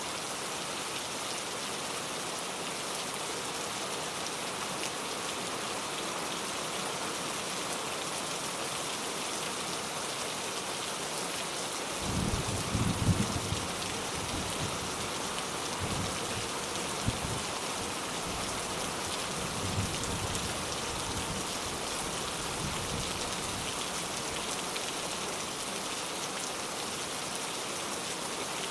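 Steady rain falling. Roughly a third of the way in, thunder rolls: a low rumble with a few sharper cracks that comes and goes over about ten seconds before the rain is left alone.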